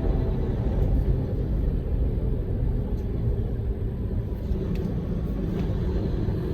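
Large truck driving, a steady low rumble of engine and road noise.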